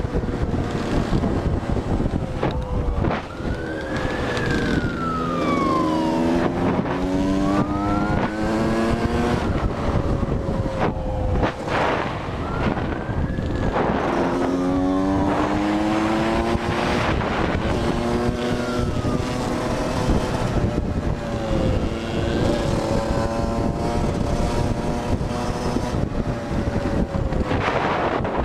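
A police siren wails, rising and falling, over an engine that revs up repeatedly as it accelerates, with a steady rush of wind and road noise.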